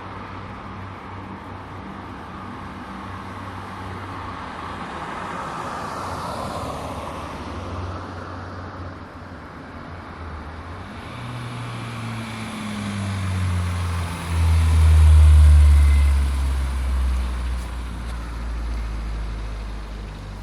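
Car engine running with a steady low hum. About twelve seconds in it grows much louder, peaks about fifteen seconds in as its pitch falls, then eases off.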